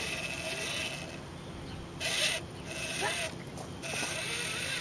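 RC rock crawler's Traxxas Titan 550 12-turn brushed motor and geared transmission whirring as it drives, with a louder burst about two seconds in.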